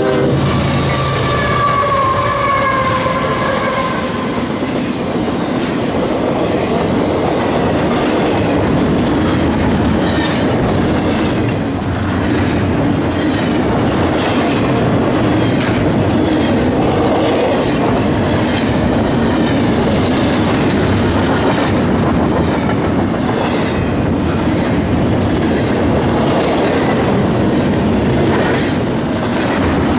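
CSX freight locomotives passing close, with tones that fall in pitch over the first few seconds. Then a double-stack container train rolls by with a steady rumble of wheels on rail and a regular clickety-clack.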